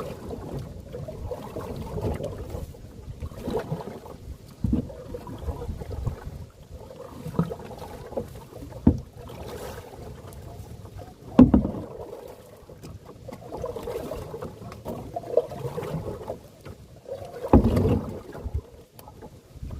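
Canoe being paddled hard: irregular paddle strokes and water noise, broken by occasional sharp knocks, the loudest about halfway through and another near the end.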